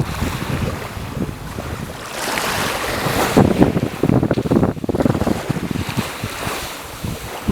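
Wind buffeting the microphone in irregular gusts over the wash of sea waves.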